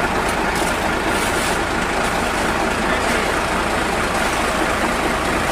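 Hino cement mixer truck's diesel engine running steadily, with no change in speed.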